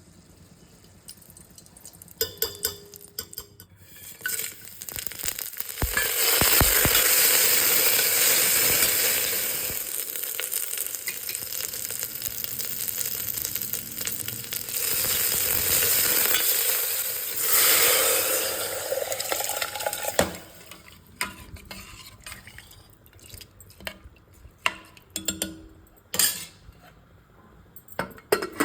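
Curry ingredients sizzling loudly in a hot pan for about fifteen seconds, swelling twice. A spoon clinks and scrapes against the pan before and after as the food is stirred.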